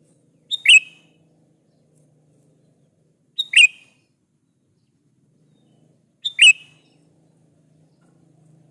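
Sooty-headed bulbul (kutilang) calling: three short, loud two-note calls, each a quick lead-in note then a louder one, about three seconds apart.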